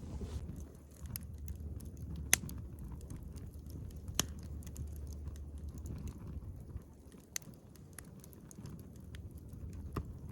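Wood campfire crackling: a few sharp pops at irregular intervals over a low steady rumble.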